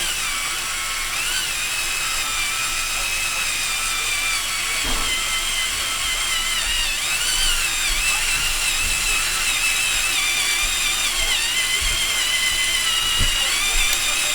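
Cordless drill motor running continuously with a high whine that wavers up and down in pitch as the speed changes.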